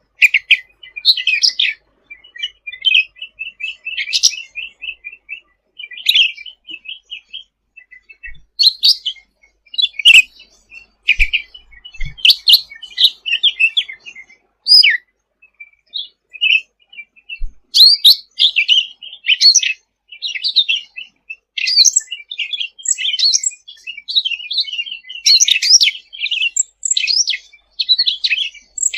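Cucak ranting, a bulbul, singing in its energetic full-song ('gacor') state: rapid runs of high, short chirps and warbled notes with brief pauses between phrases.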